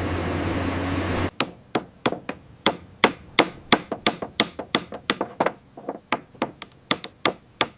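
A steady rumbling noise cuts off about a second in, giving way to a run of quick, sharp hammer blows, about three or four a second and unevenly spaced.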